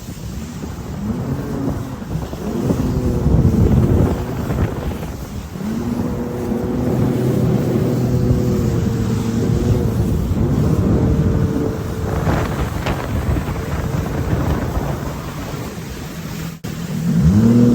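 Jet ski engine running, its pitch rising and falling as the throttle changes, with wind buffeting the microphone.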